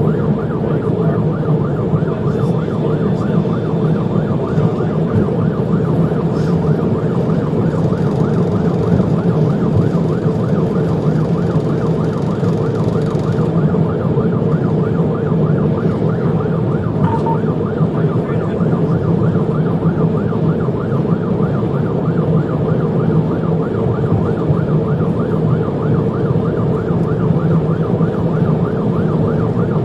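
Police car siren in a fast yelp, rising and falling several times a second without a break, over steady engine and road noise.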